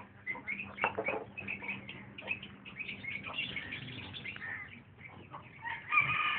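Small birds chirping and twittering, many short calls in quick succession, with one louder, drawn-out call near the end.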